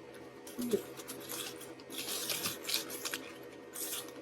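Paper food packaging rustling and crinkling in irregular bursts, with a short voice sound under a second in.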